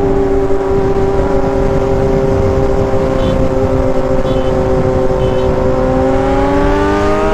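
Engine running at a steady speed, its pitch rising smoothly near the end as it is revved up.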